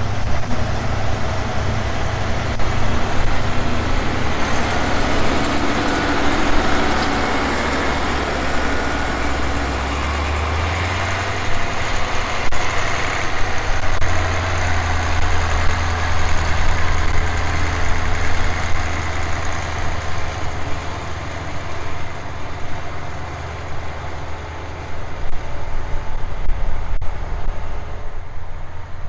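Massey Ferguson V8 tractor engine running steadily with a deep note that shifts in pitch about ten seconds in and steps up again a few seconds later.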